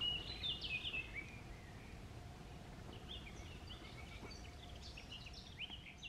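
Small birds singing in quick chirping phrases, one burst at the start and another from about three seconds in, over a low steady background rumble.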